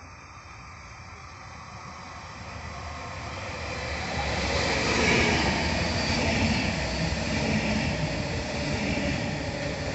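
Koleje Mazowieckie electric multiple unit approaching and then running past alongside the platform. Its wheel and running noise grows steadily louder over the first five seconds, then holds steady as the cars go by.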